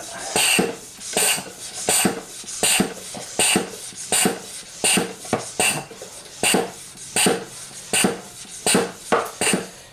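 Hand-operated oil suction pump being worked in steady strokes, about one and a half a second, each with a rush of air. It is building vacuum to draw engine oil up through the dipstick tube.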